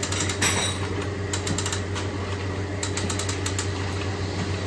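A steady low machine hum with several short bursts of rapid clicking, like a tool or mechanism working in a repair shop.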